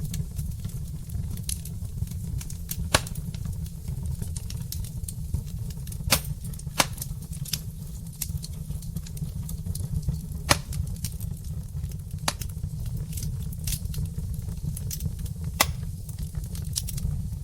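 Wood logs burning in a fireplace: irregular crackles and sharp pops over a steady low rumble, with a handful of louder pops.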